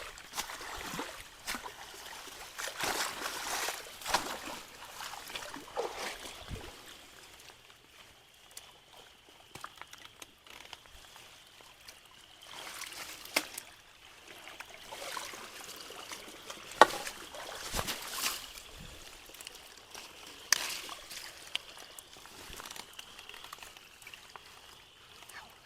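Creek water trickling and splashing in irregular swells as debris is worked loose, with scattered sharp cracks and knocks of sticks.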